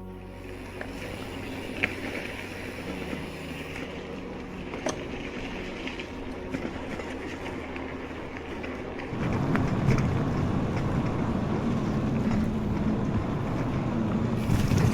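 Low rumbling noise of wind on the microphone, with scattered small clicks, growing clearly louder about nine seconds in.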